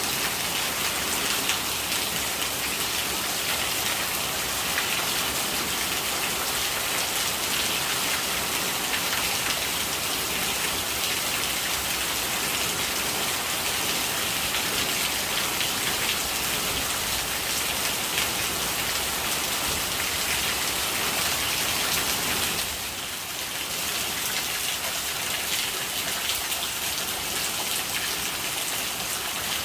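Steady rain with gurgling rainwater, a dense even hiss of drops, dipping briefly about three-quarters of the way through.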